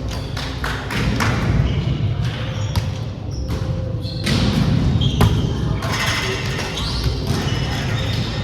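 Volleyballs being hit and bouncing on a gym floor: a string of irregular thuds and smacks, echoing in a large hall.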